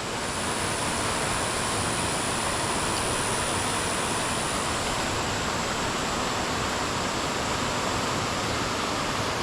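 Creek water rushing over rocks in a steady, even rush. A faint high steady whine sits over it and stops about five seconds in.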